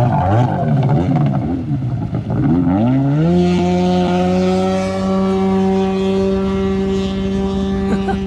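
1993 Sea-Doo SPX 580 personal watercraft's two-stroke engine, running loud with its waterbox muffler removed, revving up and down for about three seconds, then climbing to a steady high-pitched run at speed.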